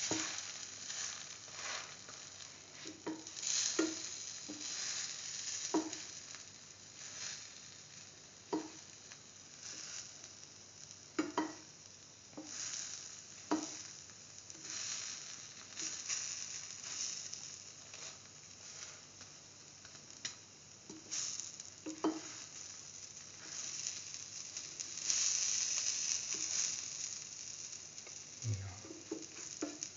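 Bread sandwich frying in shallow oil in a pan, a steady sizzle that swells and fades, with short crackles here and there. The just-turned side is hitting the hot oil.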